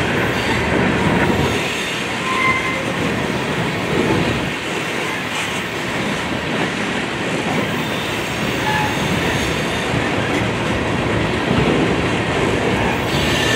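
Railroad tank cars of a freight train rolling past at steady speed: a continuous rumble of steel wheels on rail, with a few brief squeals from the wheels.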